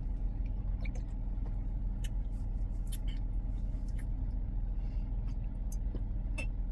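Steady low hum of a car's idling engine heard inside the cabin, with a few light clicks and taps scattered through it.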